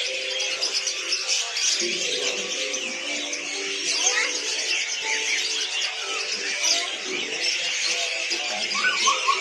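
Dense chorus of many caged songbirds chirping and twittering at once, a continuous high-pitched chatter with no pause.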